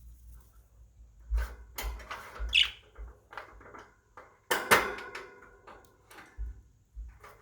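Pet budgerigars chirping briefly amid a scatter of clicks and knocks. The loudest is a sharp knock a little past halfway.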